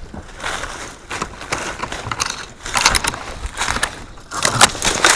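Footsteps crunching irregularly over rough ground, the last few steps the loudest.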